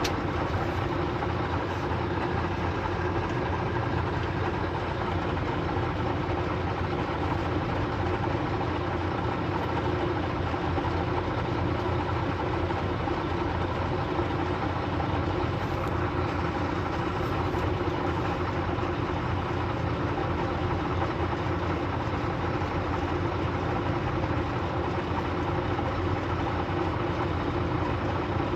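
A vehicle engine running steadily, with an even hum and no change in pitch.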